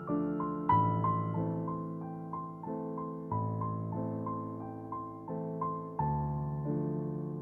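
Background piano music: a gentle melody of single notes over slow, sustained bass chords.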